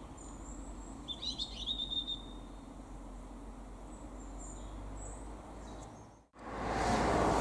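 A small bird giving a quick run of high chirps about a second in, with fainter high calls here and there, over a steady low outdoor background rumble. Near the end the sound cuts off and is replaced by a louder steady rushing noise.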